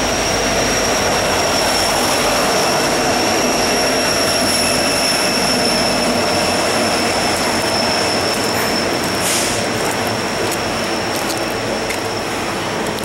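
Two double-stack intermodal freight trains passing each other on adjacent tracks: steady wheel and rail noise with a continuous high-pitched wheel squeal, and a brief hiss about nine seconds in.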